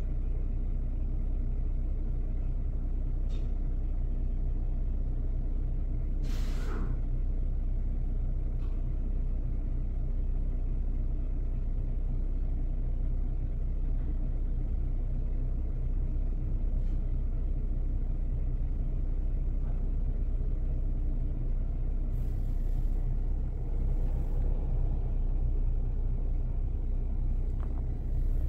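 Mercedes-Benz engine idling, a steady low rumble heard from inside the cabin.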